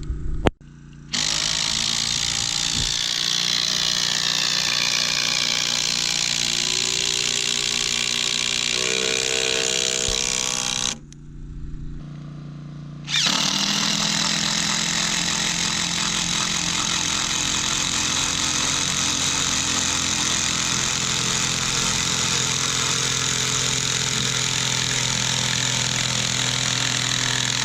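Rigid and DeWalt cordless impact drivers hammering long log screws into timber. They run almost without a break, with a short pause about eleven seconds in.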